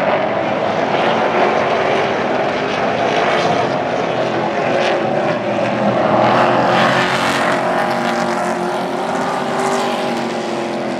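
Super truck race engines running at speed around an oval track: several engines at once, a loud steady drone.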